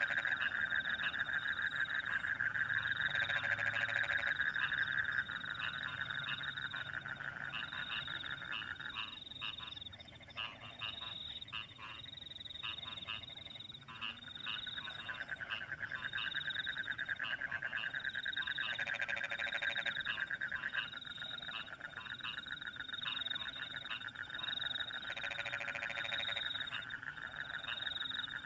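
A chorus of rice-field frogs calling in dense, fast trills, with louder single croaks now and then, over crickets chirping in a regular high-pitched beat. The frog chorus thins out for several seconds in the middle, then picks up again.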